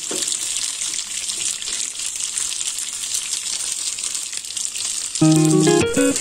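Diced tofu and vegan sausage sizzling in hot oil in a wok, a steady high hiss. About five seconds in, louder background music with plucked guitar starts over it.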